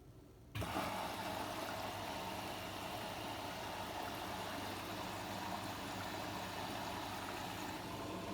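Logik washing machine with water suddenly starting to rush through it about half a second in, then a steady rushing hiss with a faint low hum underneath.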